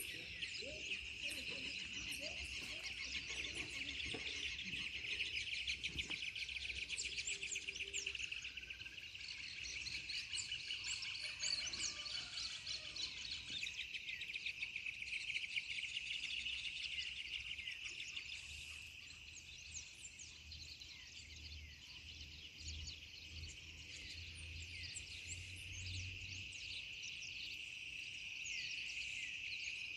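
Insects trilling steadily in one high, continuous buzz while many birds chirp and sing over it, thickest in the first half.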